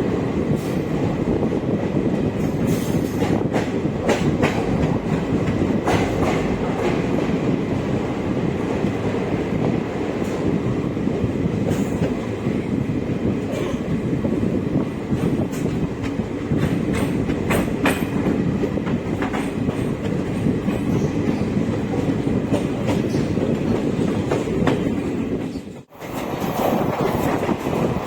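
Samleshwari Express passenger train running along the track: a steady rumble of the coaches with irregular clicks of the wheels over rail joints. The sound drops out abruptly for a moment near the end.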